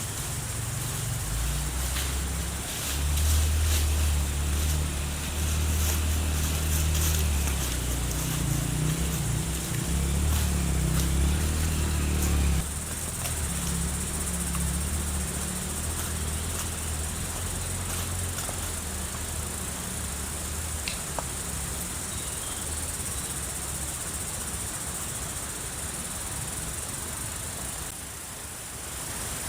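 Insects, crickets or cicadas, buzzing steadily in a high band. A heavy low rumble lies under them for roughly the first twelve seconds, then cuts off abruptly, leaving mostly the insects.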